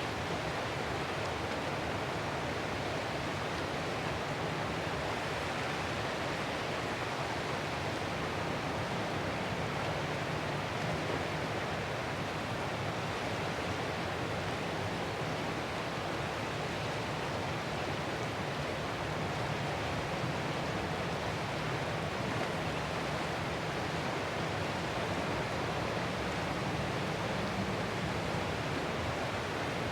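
Ocean surf washing steadily: one even, continuous rush of water with no distinct separate wave breaks.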